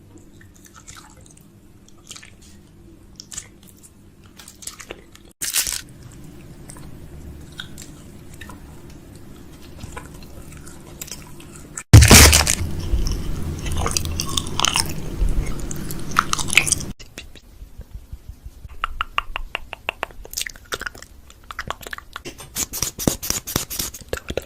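Food packaging and containers being handled while a fridge is restocked: crinkling and crunching with scattered clicks and clacks. The loudest stretch is in the middle, over a low steady hum, and a quick run of sharp ticks comes near the end.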